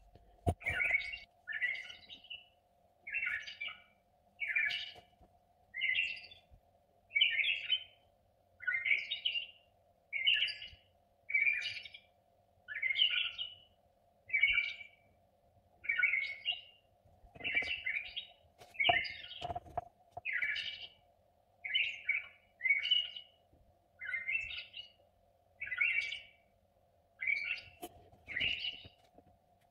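A small bird chirping over and over, one short call about every second, over a faint steady hum.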